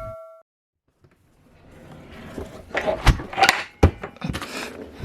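A ringing chime dies away in the first half second. After a short silence come kitchen handling noises: rustling with a few sharp knocks as things are moved about.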